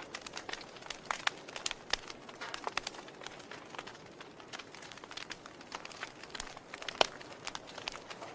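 Wood fire burning in a fireplace, with a soft steady hiss and many irregular crackles and pops; the loudest pop comes about 7 seconds in.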